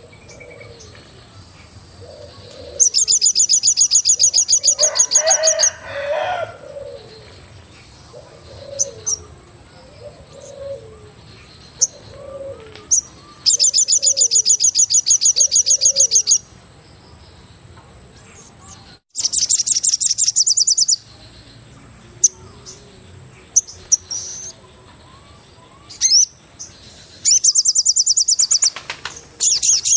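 Forest birds calling: a loud, high, rapidly pulsed trill about two to three seconds long repeats five times. Low cooing notes come about once a second through the first third, over a faint low rush of river water.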